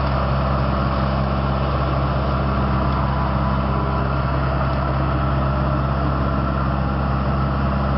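Truck-mounted leaf collector running steadily: a constant low engine drone under an even hiss.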